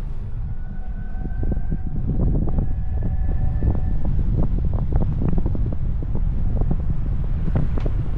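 Wind buffeting the microphone of a moving vehicle: a dense low rumble with rapid crackles. A faint high tone sounds for the first few seconds, then fades out.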